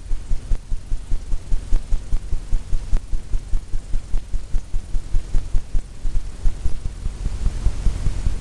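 Paintbrush tapping paint onto a stretched canvas: rapid, even low thumps, about four to five a second.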